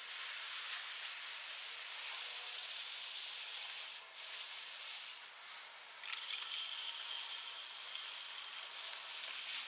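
Water spraying steadily from a shower head fed by a gas tankless water heater, a continuous hiss; from about six seconds in a thin steady high tone sounds over it.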